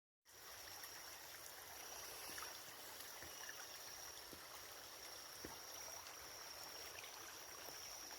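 Small stream of water running steadily over a dirt path, faint, with a thin steady high-pitched tone above it.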